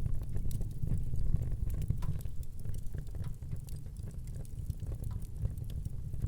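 Wood fire burning in a fireplace, with a steady low rumble and frequent small crackles and pops scattered throughout.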